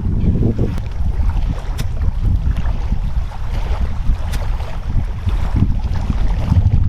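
Wind buffeting the microphone: a loud, uneven low rumble, with a few faint clicks.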